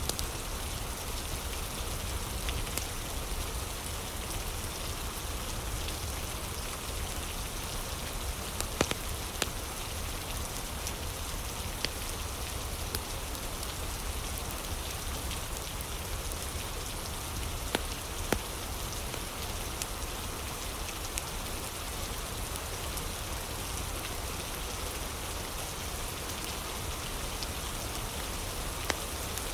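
Steady rain falling, with occasional sharp pops and crackles from a wood fire.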